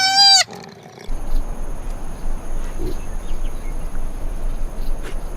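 A short, loud, high-pitched animal call that rises and falls in pitch, then, after a cut about a second in, a steady rough noise with a low rumble and two faint, steady high whines.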